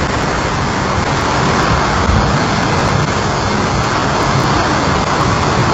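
A train passing at speed through floodwater over the tracks: a loud, steady rush of train noise and spraying water.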